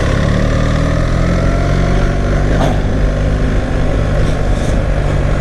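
BMW R 1300 GS boxer-twin engine running steadily on the move.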